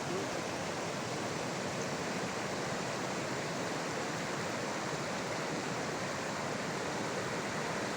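Steady rushing of a meltwater stream or waterfall, an even hiss with no change in level.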